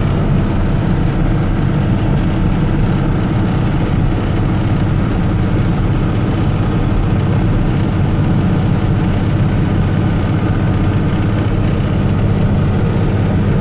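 Loaded truck's engine pulling hard up a steep hill, a steady low drone.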